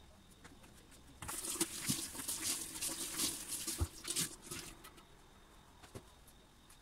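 Rustling and small knocks of household items being handled during cleaning, lasting about three and a half seconds from about a second in, then a few isolated ticks.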